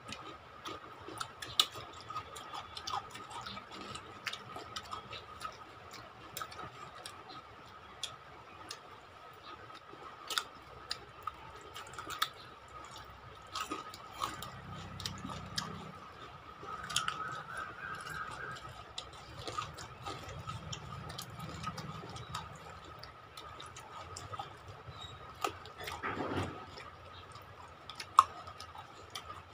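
Close-up eating sounds: wet chewing and lip smacks, with scattered small clicks as several people eat curry and rice with their fingers. A faint steady high-pitched whine runs underneath.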